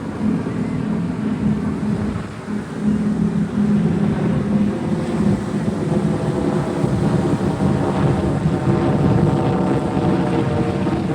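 Propeller airplane engine droning overhead as it flies by, growing louder about three seconds in.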